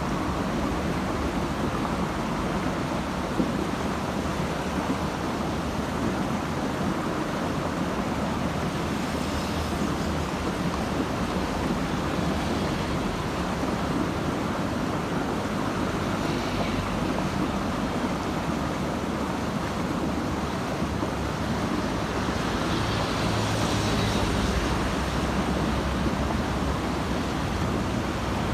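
Steady road traffic noise: a continuous rush and low engine rumble of passing vehicles, growing a little louder near the end as a heavier vehicle goes by.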